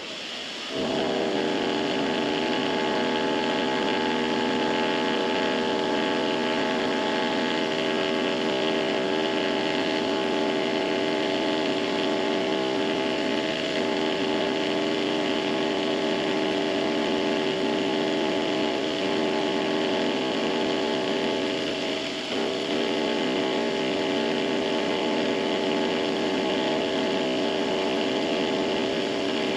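Small benchtop machine tool (mini lathe or benchtop mill) starting about a second in and running steadily with a whine, making a light cleanup cut in aluminum.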